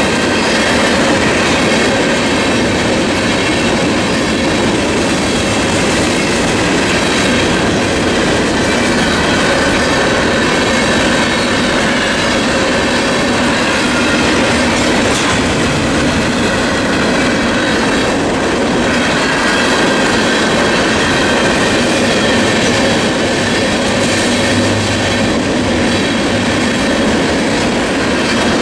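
Freight train of tank cars and covered hoppers rolling steadily past, a loud, even noise of steel wheels running on the rails.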